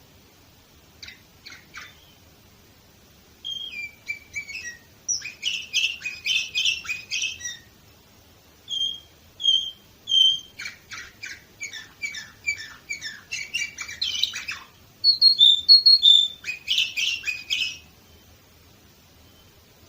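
Domestic canary singing: phrases of quick repeated notes and short clear whistled notes, with brief pauses between them, stopping shortly before the end.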